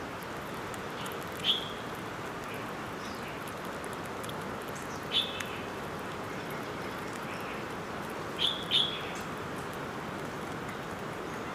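Short, high bird chirps: one about a second and a half in, another past five seconds, then two in quick succession near the end. A steady outdoor hiss runs beneath them.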